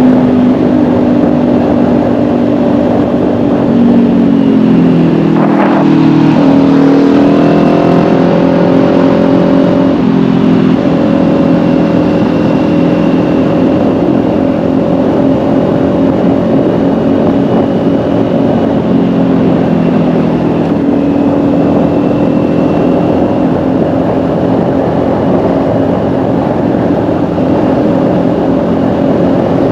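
Kawasaki Ninja 400's parallel-twin engine under way, heard from the rider's seat. Revs fall about four seconds in, then climb again in steps, then settle into a steady cruise with small rises and falls in pitch.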